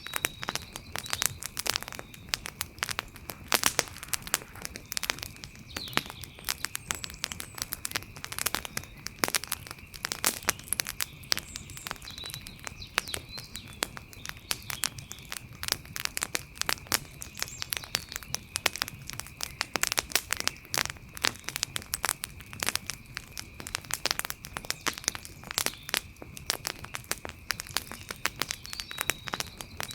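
Wood fire crackling: a steady, dense run of sharp pops and snaps, with a faint steady high-pitched tone underneath.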